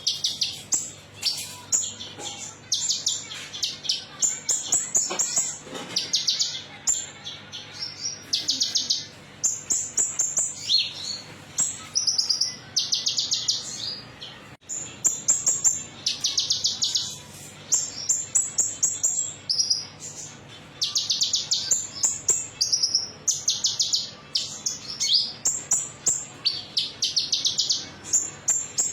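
Konin songbird singing a metallic song: rapid, high, finely pulsed trills of about half a second to a second each, repeated one after another with short gaps, over a faint steady low hum.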